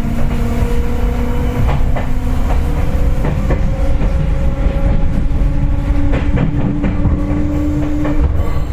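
Interior running sound of a Seibu 4000 series resistance-control electric train: wheels clicking over rail joints under a steady hum, which rises slightly in pitch and stops near the end.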